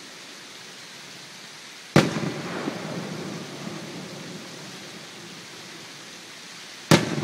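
Aerial firework shells bursting: two loud booms about five seconds apart, each followed by a rumbling echo off the valley sides that dies away over a second or two.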